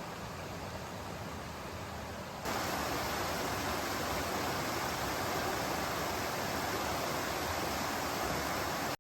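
A stream running with a steady rush of water. About two and a half seconds in, the sound cuts abruptly to a louder, closer stretch of running water, which stops suddenly at the end.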